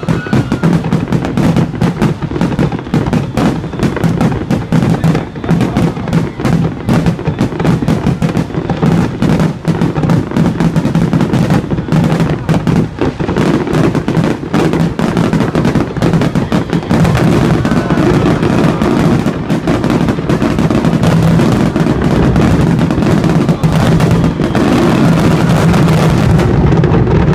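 Aerial fireworks in a dense, continuous barrage: shell bursts, booms and crackling overlap without pause over a steady rumble, cutting off suddenly at the very end.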